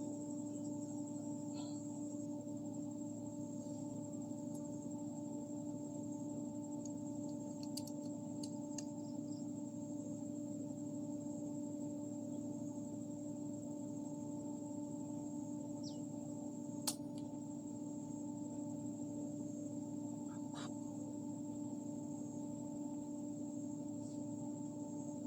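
A steady low hum with a thin high-pitched whine above it, unchanging throughout, and one sharp click about seventeen seconds in.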